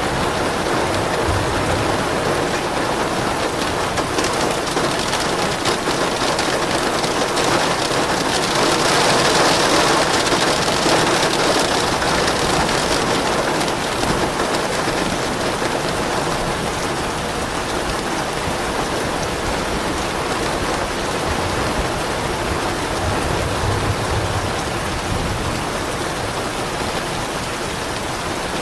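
Steady heavy rain pattering down, swelling a little louder about a third of the way through. Soft low rumbles of distant thunder come in faintly underneath.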